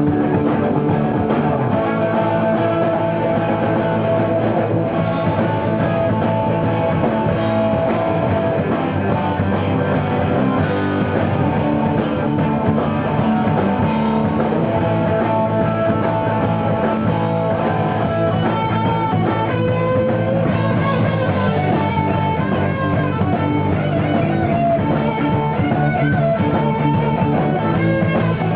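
Live rock band playing an instrumental passage without vocals, with a guitar lead of long held, sliding notes over bass and drums.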